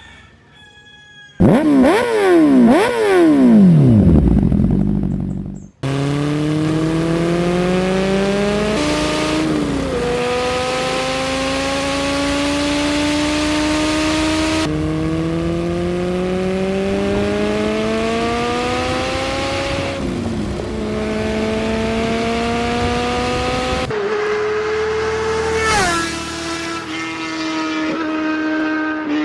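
Superbike engine revved hard a few times, then accelerating through the gears: its pitch climbs steadily for several seconds and drops at each upshift. There are a few abrupt cuts between stretches.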